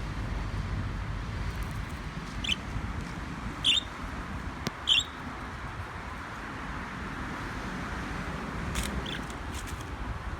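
Budgerigar giving about five short, high chirps, the loudest two in the middle, over a steady background hiss.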